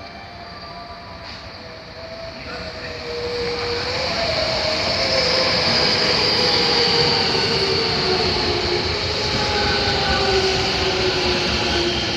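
Electric commuter train pulling in on the next track and slowing down: the running noise builds up over the first few seconds and then holds. Over it, the motor whine slides down in pitch as the train brakes, with a high hiss on top.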